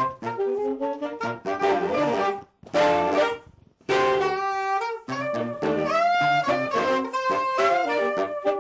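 A saxophone quartet playing together, several saxophones sounding chords in short, moving notes, with two brief breaks in the first half.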